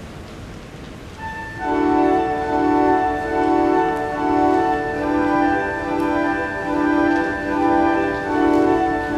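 Pipe organ starting to play a little over a second in, holding steady sustained chords with a lower note that swells and fades in a slow regular pulse.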